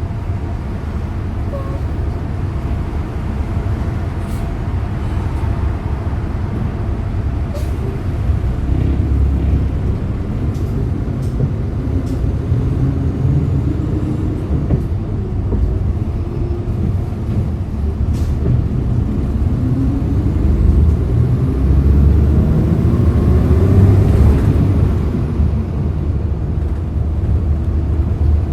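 Hyundai Green City CNG city bus engine running under way with a steady low rumble. About twenty seconds in its pitch rises and it grows louder as the bus accelerates, then it eases off near the end. Light clicks and rattles come through here and there.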